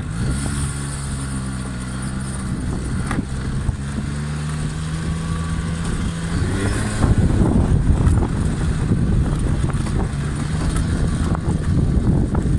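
Honda 50cc scooter engine running at a steady, even pitch. About six and a half seconds in it revs up, and it then runs louder and rougher.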